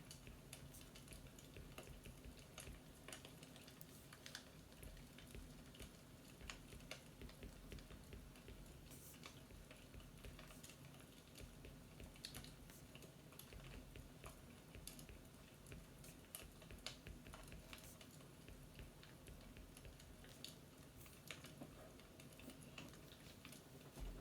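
Faint fireplace crackling: irregular small pops and snaps over a low, steady background.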